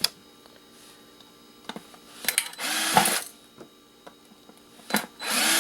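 Handheld power driver whirring in two short bursts while backing screws out of a kettle's casing, with light clicks of screws and parts between.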